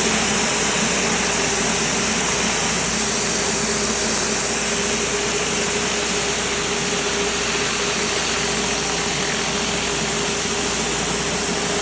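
Gas-engine pressure washer running steadily under load, its engine hum held at one pitch beneath a loud, even hiss of high-pressure water spraying onto concrete.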